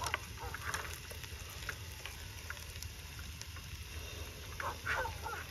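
Onions frying in oil in a pan, sizzling steadily with many small crackles and spits. Dogs bark a few times in the distance near the end.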